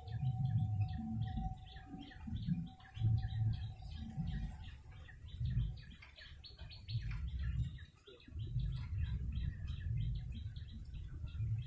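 Prenjak lumut chirping in a fast, continuous series of short high calls, as used to lure the bird, over a low, uneven rumble that is the loudest part. A thin steady tone sounds through the first half.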